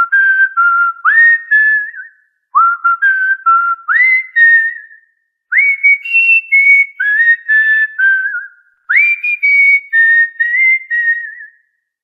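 Cockatiel whistling a short tune in four phrases of clear whistled notes. Each phrase opens with a quick upward swoop, then moves through held and stepping notes.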